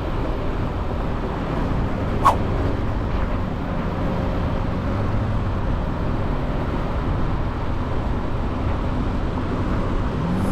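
Motorcycle riding along a highway: steady engine, wind and road noise, with one brief sharp click a little over two seconds in.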